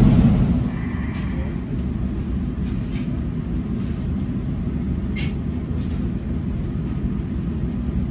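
Steady low rumble inside a train carriage, with a few faint clicks about a second, three seconds and five seconds in.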